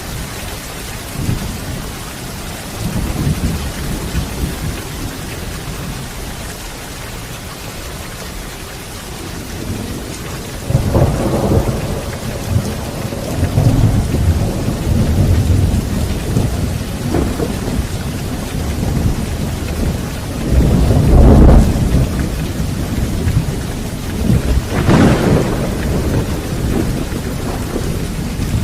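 Steady rain in a thunderstorm, with thunder rumbling several times. The loudest rumble comes about three quarters of the way through, and a sharper crack follows soon after.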